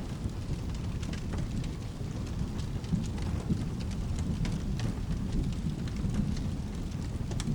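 Rain and thunder ambience: steady rain with a low, continuous rumble of thunder, and scattered sharp ticks throughout.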